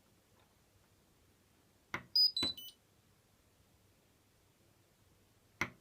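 Hotpoint washing machine control panel: the power button clicks about two seconds in, then a short electronic jingle of three beeps falling in pitch plays as the machine switches off. Another button click comes near the end.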